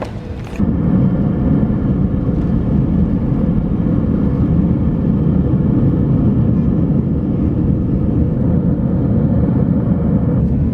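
Steady loud rumble of a vehicle in motion, with a constant hum tone over it. It starts suddenly about half a second in.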